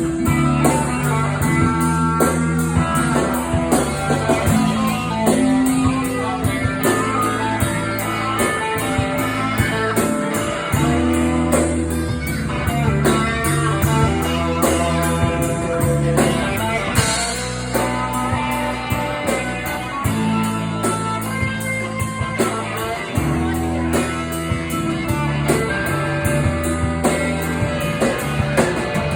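Blues-rock band playing an instrumental passage without vocals: guitar over bass and a steady drum beat.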